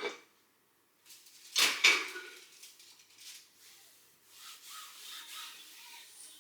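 Kitchenware being handled during a kitchen clean-up: a knock right at the start, a louder clatter of dishes about two seconds in, then a few seconds of rubbing.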